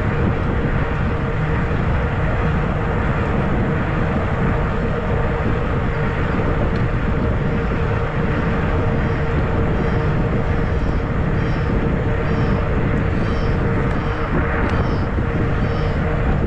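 Wind buffeting the microphone and fat tyres rolling on pavement as a fat-tire e-bike rides along, with a steady hum running under it. About halfway through, a high chirp starts repeating a little faster than once a second.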